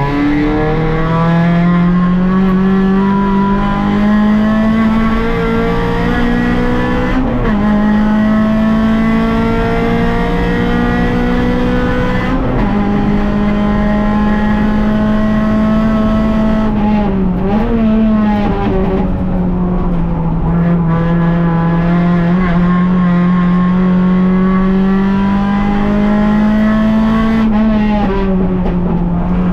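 Rally car engine heard from inside the cabin, running hard at high revs. Its pitch climbs slowly and then drops abruptly about five times as the driver changes gear through the stage.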